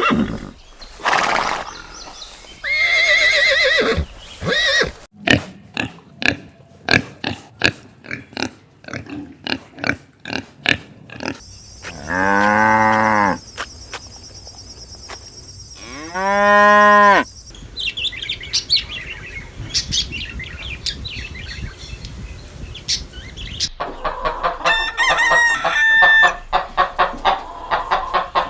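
A series of poultry calls: a run of rapid clucks, then two long, arched crowing calls, then chirping and clucking.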